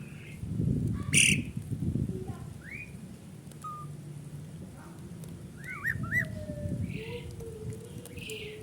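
Pied starling (jalak suren) calling: a varied string of short whistles, rising and looping notes and harsh chatter, with a sharp click about a second in.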